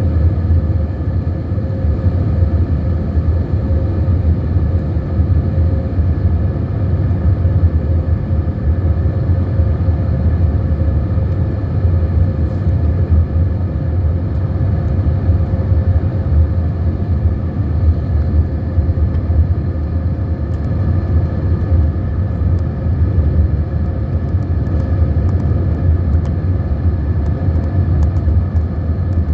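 Steady cabin noise inside an Airbus A320neo (A320-251N) on approach: a deep, even rumble of airflow and engines with a faint steady hum above it, unchanging throughout.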